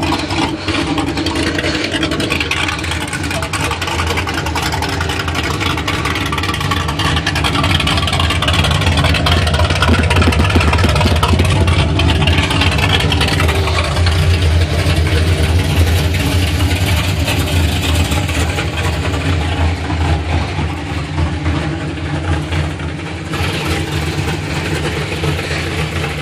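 Car engines idling and running close by at a muscle-car gathering, a steady low rumble that swells for several seconds in the middle and then eases.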